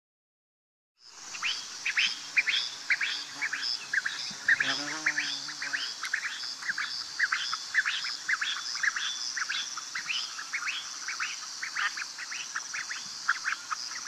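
A recorded wild bird call starting about a second in: a rapid run of short, sharp downward-sweeping notes, several a second, over a steady high-pitched pulsing background. A brief lower-pitched call joins about four seconds in.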